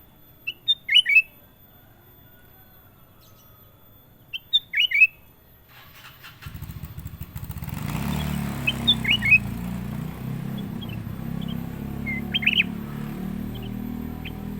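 A kutilang emas bulbul singing short phrases of quick, clear whistled notes. About halfway through, a low steady rumble like a passing motor comes in underneath and the bird keeps calling over it.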